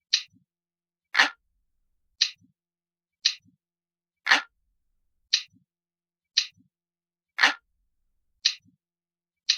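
Mechanical clock ticking about once a second, with every third tick fuller than the others, and dead silence between ticks.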